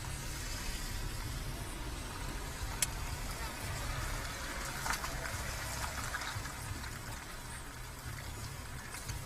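Steady low rumble and hiss of car cabin and road noise on a dashcam recording, with two short sharp clicks about three and five seconds in.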